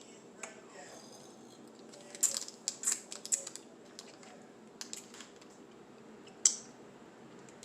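Plastic snack packaging being handled, giving a cluster of sharp crinkles and clicks from about two seconds in and one sharp crackle near the end, over a low steady room hum.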